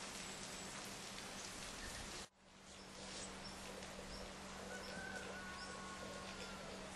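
Steady rain falling, a fine even hiss. The sound cuts out briefly about two seconds in and fades back, and faint bird chirps come through the rain in the second half.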